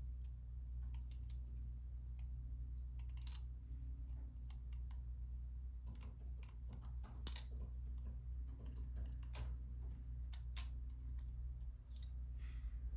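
Irregular light clicks and taps of a Sony SELP1650 zoom lens and small tools being handled during disassembly, over a steady low hum.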